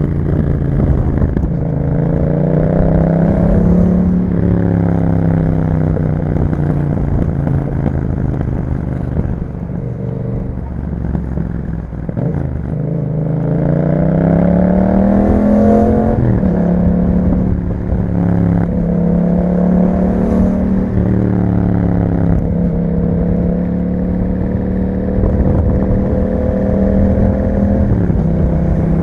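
2021 Yamaha MT-07's parallel-twin engine running through an Akrapovic exhaust with dB killers while being ridden. The engine note climbs under acceleration, sinks back, then climbs again and drops sharply, as at a gear change, about halfway through. It then holds nearly steady at cruising speed.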